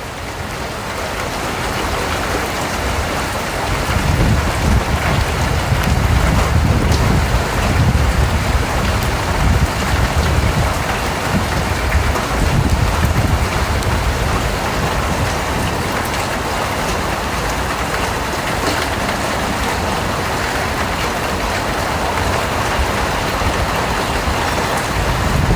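Steady rain, a dense even hiss with a deep low rumble underneath, swelling over the first few seconds and then holding steady.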